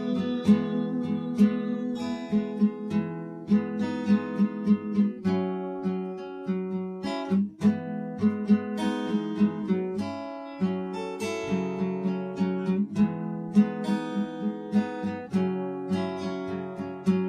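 Acoustic guitar played alone: a rhythmic strummed and picked chord pattern, chords changing every second or two, between sung verses.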